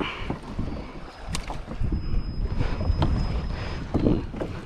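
Wind rumbling on the microphone and water sloshing around a kayak, with a few short knocks and rustles of handling on the boat.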